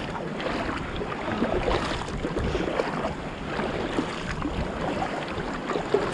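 Sea water splashing and lapping around an inflatable kayak under way, with wind buffeting the microphone.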